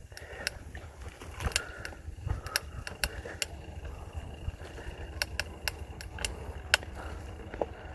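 Polygon Xtrada 5 mountain bike rattling over rough ground: irregular sharp clicks and clatters, many in quick succession, over a steady low rumble of the tyres on the trail.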